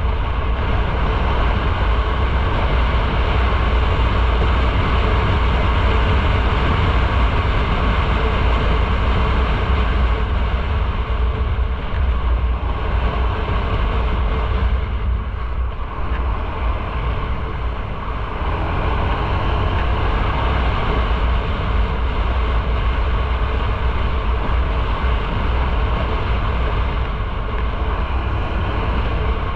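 Motorcycle riding at steady road speed: a low engine drone mixed with wind and road noise, easing briefly about two-thirds of the way through.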